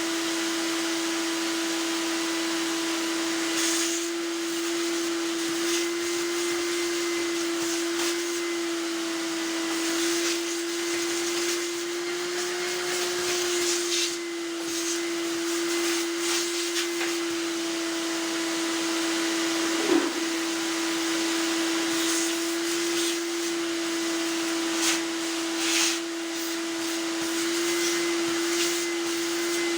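Whirlpool tumble dryer running: a steady motor hum over the rush of its blower, with a few light knocks scattered through.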